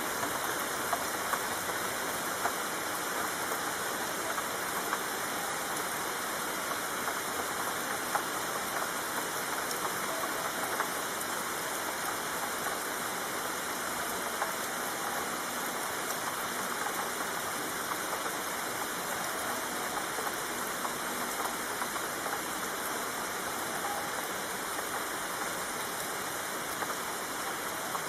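Heavy rain falling steadily: an even hiss with a dense patter of drops that stays the same throughout.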